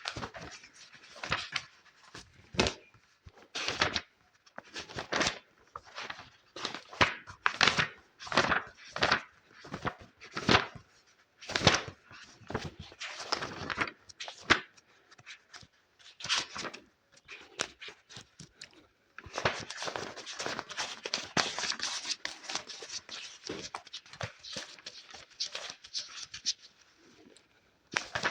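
Close-miked ASMR handling sounds: a series of separate rustling, scraping strokes, then about two-thirds of the way through a dense, fast crackle that runs for several seconds and then stops.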